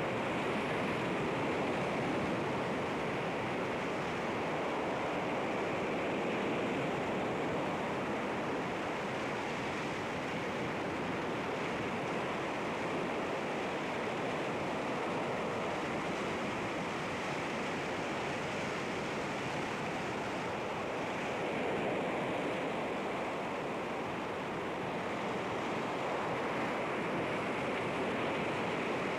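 Sea waves washing against rocks: a steady wash of surf that swells gently and eases in loudness.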